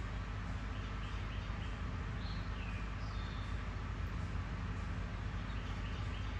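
A few faint, short bird chirps and slurred whistles, mostly between one and a half and three and a half seconds in, over a steady low rumble.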